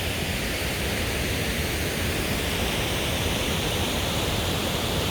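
White River Falls heard from nearby: a steady, unbroken rush of falling water.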